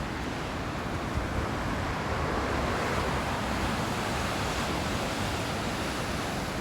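Ocean surf washing steadily against the shore, a continuous rushing noise.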